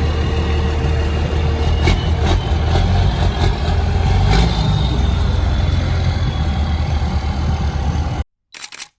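A large truck engine runs at idle with a deep, steady rumble, then cuts off suddenly near the end. A brief clicking sound follows.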